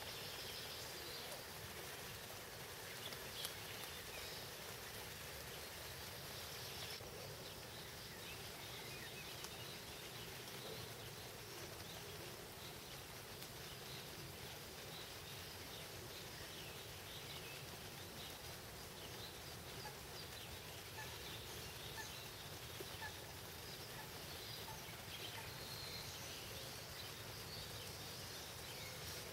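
Steady light rain: an even hiss with many small scattered drip ticks, and one sharper click about three seconds in.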